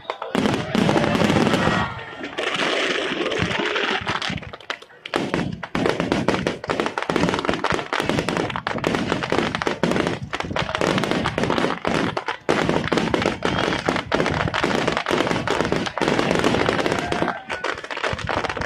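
Fireworks finale barrage: aerial shells bursting in quick, overlapping succession, many bangs a second, with crackling.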